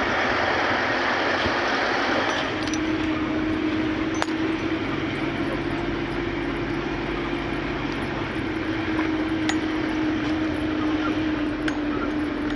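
A vehicle on the move, with steady engine and road noise. An even engine tone settles in about two seconds in, and there are a few light clicks and rattles.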